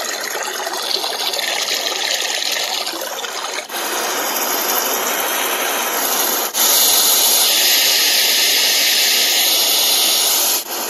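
Six-sound white noise generator playing through its small speaker, stepped from one sound to the next with short breaks. First comes a rain-like water hiss, then after the break at about six and a half seconds a louder, steadier white noise with more treble than the rain.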